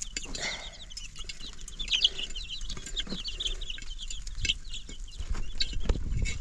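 Chickens calling: many short, high chirps overlapping one another, with a low rumble near the end.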